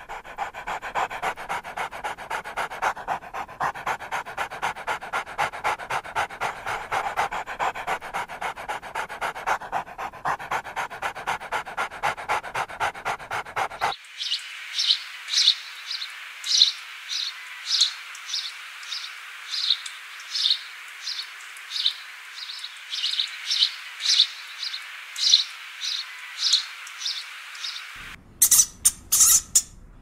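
A dog panting rapidly in even breaths, about four a second. About halfway through the panting stops, and a run of short, high, thin calls follows, about two a second. Near the end come a few sharp, high squeaks.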